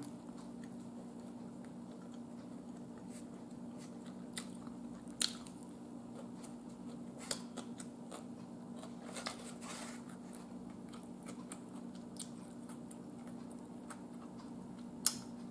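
Close-up eating sounds: quiet chewing with a few scattered short clicks and smacks, the sharpest near the end, over a steady low hum.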